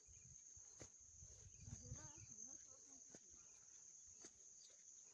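Faint, steady high-pitched insect drone, with a few light clicks and a brief murmur of distant voices about two seconds in.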